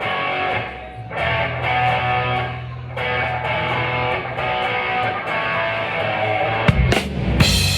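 A band playing live: guitar chords ringing in phrases, with drums coming in near the end.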